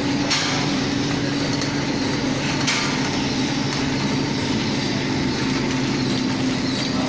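Chocolate bar packing machine running: a steady mechanical hum with a held low tone, and a sharp click about a third of a second in and another about two and a half seconds in.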